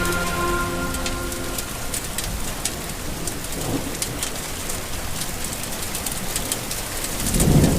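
Steady rain falling, with scattered drop ticks and two short low rumbles, one about halfway and one near the end. The tail of a music track fades out in the first second or so.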